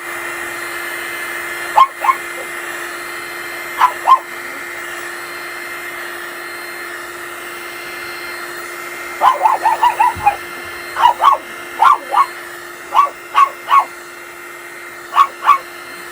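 A dog barking in short pairs and quick runs of several barks, with a pause in the middle, over a steady whirring hum from a running appliance.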